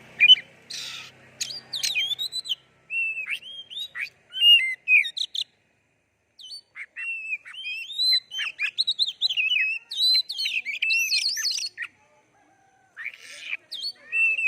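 Oriental magpie-robin (kacer) singing in full, fast song: rapid high whistled notes sweeping up and down, in phrases broken by two short pauses, with a harsh rasping note near the start and another near the end.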